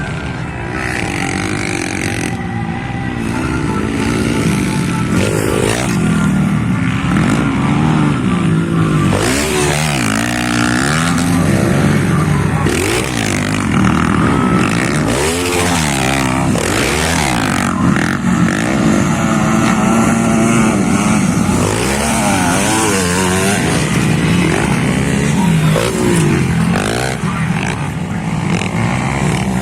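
Several motocross bikes racing, their engines revving up and falling back over and over, the pitches of different bikes overlapping.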